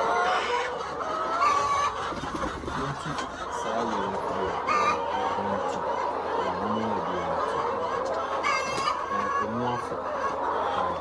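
A large flock of chickens in a poultry house clucking and calling, a steady chorus of many overlapping calls with louder single squawks standing out now and then.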